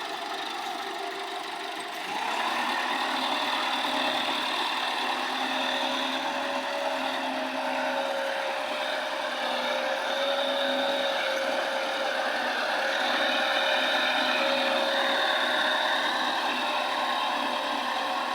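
Tractor engine running steadily, picking up and getting louder about two seconds in, then holding a steady drone with a high whine.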